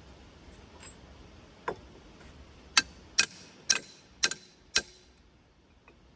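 Five sharp metal-on-metal taps about half a second apart, each ringing briefly, after one lighter knock: a steel tool striking steel parts of the sawmill's saw guide.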